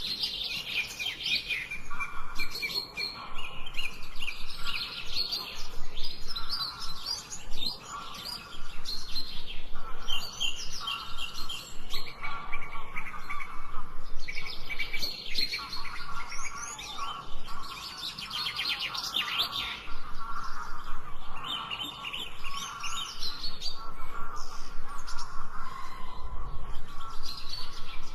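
Birdsong: several birds chirping and trilling at once, their calls overlapping without a pause, some high and rapid, others lower and more warbling.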